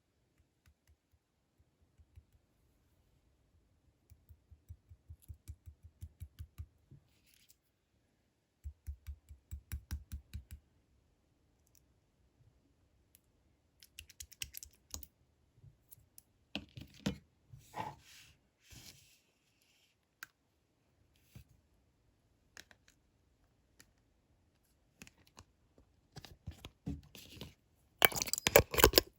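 Slime being pressed and squeezed by hand: soft squishing clicks in rhythmic runs of about three a second, then scattered crackles, growing into loud dense crackling near the end.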